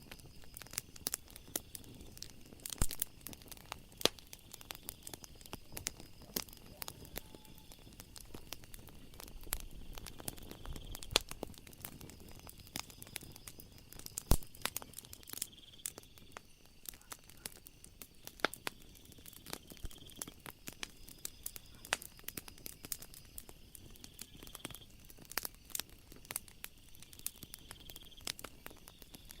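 Wood fire crackling, with many irregular sharp pops of varying loudness, over a steady high-pitched insect trill that swells every few seconds.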